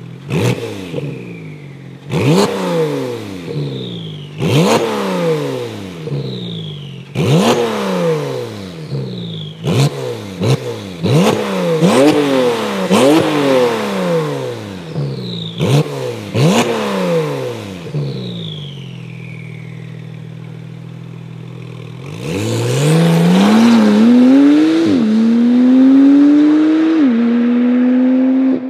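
Porsche 911 Turbo S (991.2) twin-turbo flat-six through a Baq turbo-back exhaust with an X-pipe, idling and blipped sharply about a dozen times, the revs jumping and falling straight back each time. It then settles to idle. Near the end the revs climb and stay higher, dropping suddenly a few times as if through gear changes.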